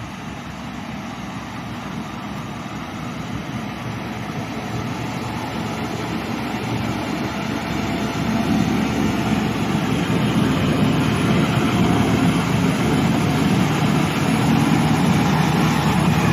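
Heavy truck's diesel engine running under load with road noise, growing steadily louder.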